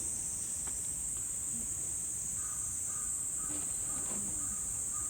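Steady high-pitched drone of a summer insect chorus. From about halfway through, a bird joins in with a rapid series of short repeated calls.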